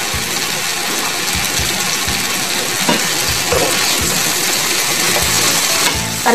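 Sliced carrots, tomato and onion sizzling in a hot frying pan while a wooden spatula stirs them, with a few light knocks of the spatula against the pan. The sizzle eases slightly near the end.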